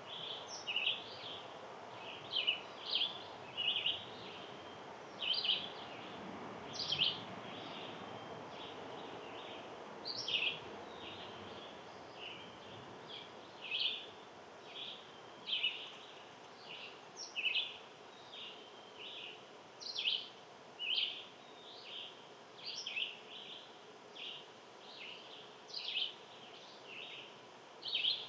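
Small birds chirping over and over: short high chirps, about one a second, some in quick pairs, over a steady low background noise.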